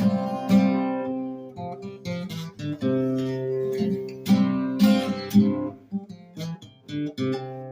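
Acoustic guitar strummed, a series of chords each left to ring.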